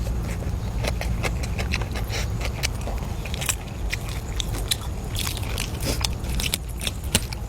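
Close-up eating sounds: someone biting and chewing crunchy food, with irregular sharp crackles and crunches. A steady low hum runs underneath.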